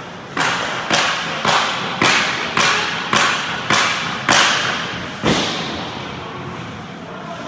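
Nine loud bangs in a steady rhythm about half a second apart, each ringing on in the echo of an ice hockey arena, with a slightly longer pause before the last one.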